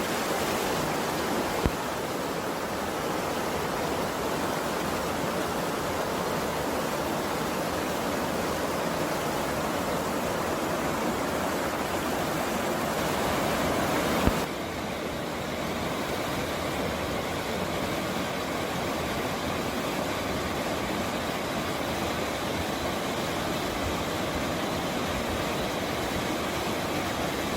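Steady rushing of a mountain stream's flowing water, an even hiss with no gusting. About halfway through it shifts a little and drops slightly in level, with a faint tap just before.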